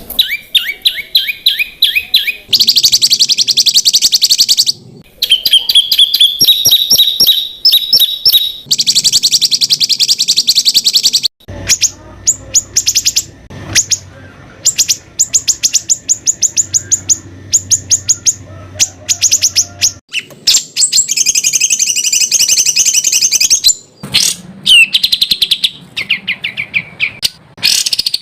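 Loud songbird song made of fast repeated notes and rapid trills, the sharp 'tembakan' phrases of competition songbirds. The phrases change abruptly every few seconds, with short breaks where one snippet is cut to the next.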